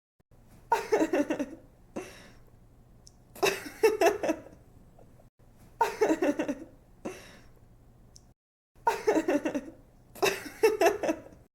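A young woman giggling in five short bursts of quick, rapid laughter pulses, with breaths between the bursts.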